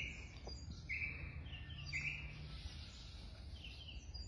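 A bird chirping in the background: a series of short high chirps, roughly one a second, over a low steady hum.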